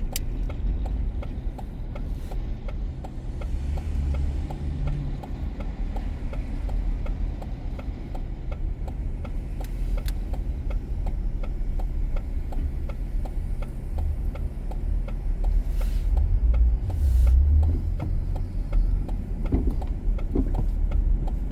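Car on the move: a steady low rumble of engine and road noise with an even, quick ticking running through it, and a louder rush about three quarters of the way in.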